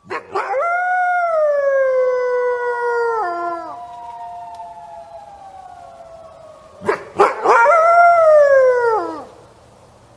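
Wolf howling twice: a long howl that drops in pitch and slowly fades, then a second, shorter howl that rises and falls about seven seconds in.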